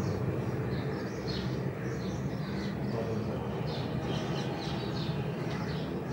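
Small birds chirping again and again, short high chirps over a low steady hum.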